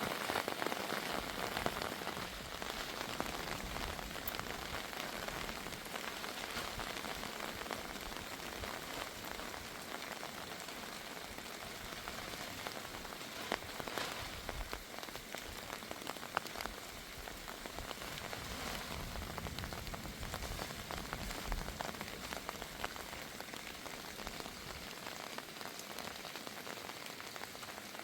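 Heavy rain falling steadily, a dense spatter of many small drops striking a surface.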